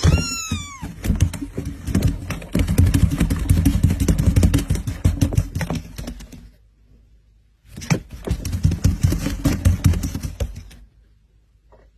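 A short cat meow, falling slightly in pitch, then two long runs of rapid clicking and rustling: the first about six seconds long, the second about three seconds long after a brief pause.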